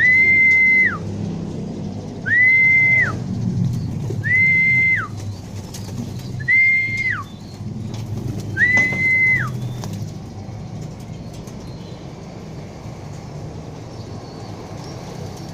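A whistle sounds five times, about two seconds apart. Each note is a steady high tone under a second long that drops quickly in pitch at the end, over a low background rumble.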